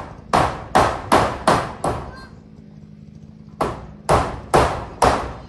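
Hammer blows driving nails: a run of five quick strikes, a pause, then four more.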